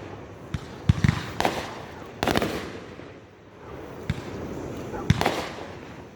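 Fireworks going off: irregular sharp bangs with echoing tails, several in quick succession in the first two and a half seconds, a brief lull around the middle, then more bangs about five seconds in.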